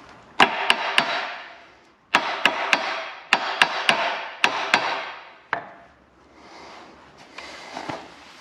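Hammer tapping on steel engine parts in quick runs, about a dozen sharp strikes each with a short ringing, then quieter scraping; the blows are working at a stuck main bearing cap to loosen it from the block.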